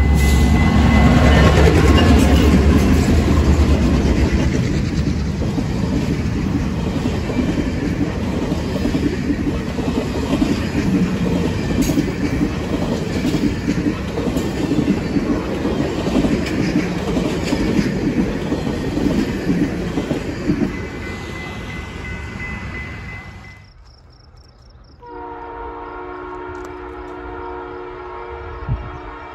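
Canadian Pacific F-unit diesel locomotives rumbling past close by, followed by a long string of passenger cars clattering over the rail joints. After a cut about 24 seconds in, a train horn sounds steadily from an approaching train.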